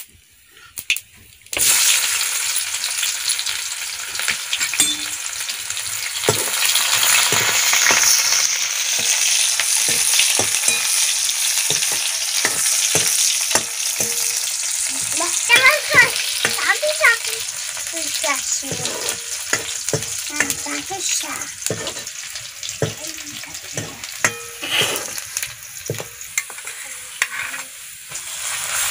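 Hot oil in an aluminium kadhai over a wood fire breaks into a loud sizzle about a second and a half in as chopped ingredients go in, then keeps frying while a spoon stirs, scraping and clicking against the pan.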